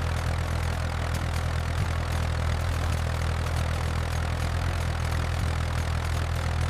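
Tractor engine running at a steady, low drone.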